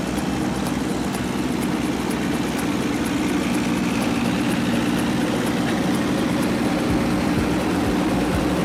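An engine running steadily at idle, with an even low hum and no revving.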